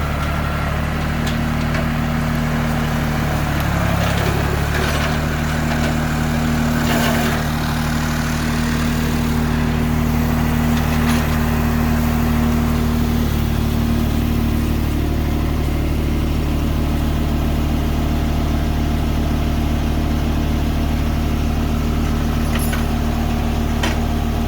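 A farm tractor's engine running steadily under load, with a few faint knocks over it.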